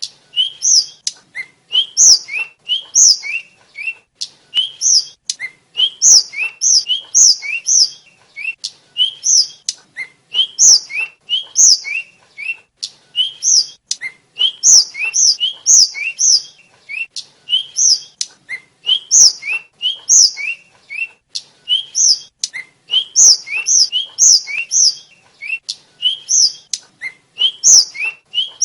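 A sikatan flycatcher (the bird called tledekan or sulingan) singing continuously: rapid runs of short, high, upward-slurred chirps, repeated in quick bursts about once a second.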